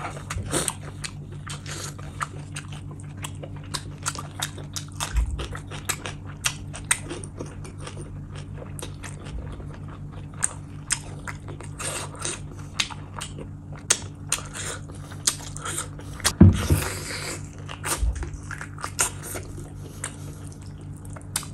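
Close-miked wet chewing and mouth clicks of a person eating mutton curry with rice, with one louder, longer wet burst about two-thirds of the way through. A faint steady low hum sits underneath.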